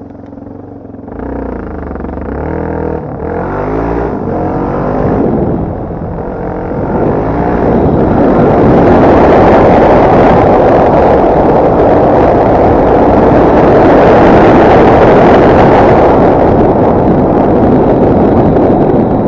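Off-road motorcycle engine revving up and down through the gears, then from about eight seconds in a loud, even rush of engine and wind noise on the microphone at speed, the loudest part.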